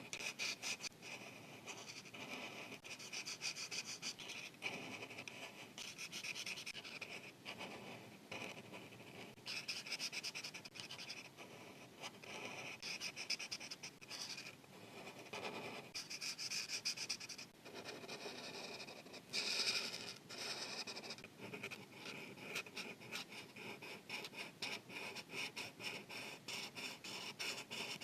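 Marker tip rubbing on paper in rapid back-and-forth coloring strokes, coming in runs with brief pauses.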